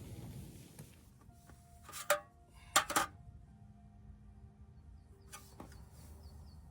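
Camping cookware and utensils being handled: sharp clinks and knocks with a short ring, a pair about two seconds in and a louder cluster about three seconds in, then a lighter tap or two later.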